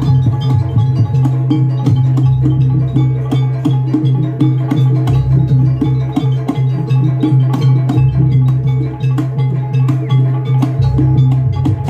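Banyuwangi gamelan music for a barong dance: fast, dense drumming and struck percussion over a sustained low tone, with a deep low note coming back every three seconds or so.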